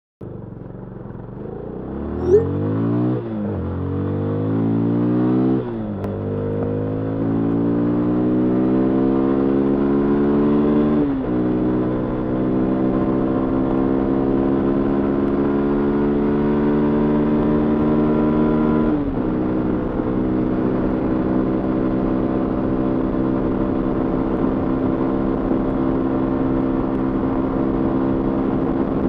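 Yamaha FZ25's 249 cc single-cylinder engine through its stock exhaust, heard onboard while riding: the motorcycle accelerates and the engine note climbs steadily, dropping sharply at each upshift, three of them, then settles into a steady cruise. A single sharp click sounds a couple of seconds in.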